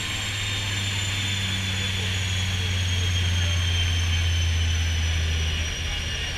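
Vehicle engine running with a steady low drone, with a thin high whine that slowly falls in pitch.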